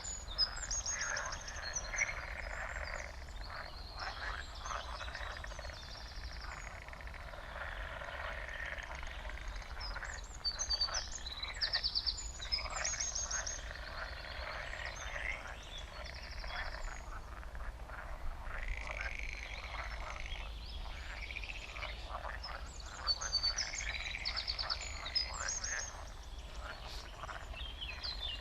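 A chorus of many frogs croaking at once, dense and continuous, with short high trilling calls breaking in over it every few seconds.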